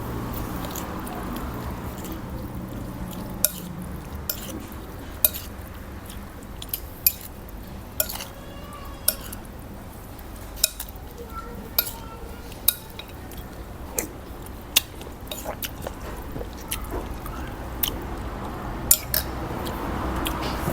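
Spoon clinking against a bowl as noodle soup is stirred and mixed, with sharp irregular clinks roughly once a second.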